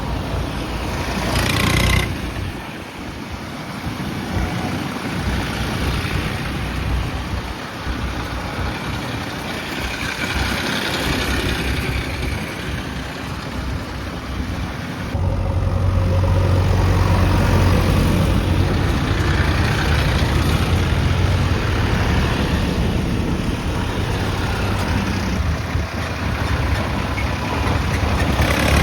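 Heavy diesel engines of earth-moving vehicles running, with a louder, steady low engine drone setting in about halfway through.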